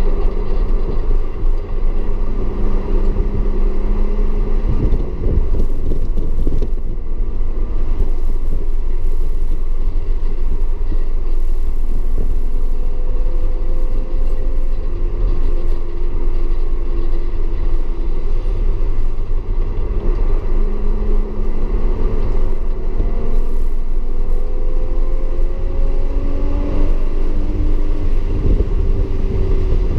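Audi S4 at racing speed, heard from on board: a heavy, steady low rumble of engine and road noise, with the engine note climbing in pitch under acceleration twice, through the middle and again in the last third.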